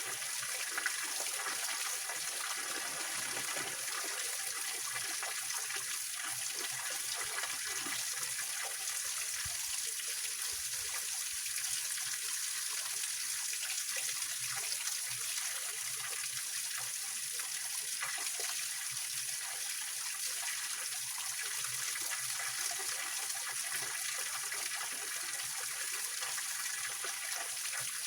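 Small waterfall and mountain stream splashing over rocks, a steady, even rush of water with a hissy high end.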